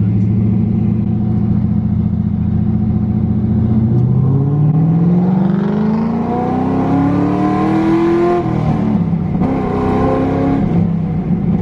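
LS2 V8 in a swapped Nissan 240SX, breathing through long-tube headers and a straight exhaust after two high-flow cats. It cruises steadily, then accelerates on light throttle, its pitch rising for about four seconds before dropping sharply at a gear change and settling back to a steady drone.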